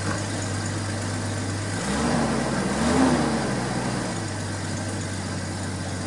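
Jeep Cherokee XJ's 4.0-litre straight-six idling on freshly fitted four-hole fuel injectors while the engine computer relearns them. Engine speed rises and falls once, about two to four seconds in, then settles back to a steady idle.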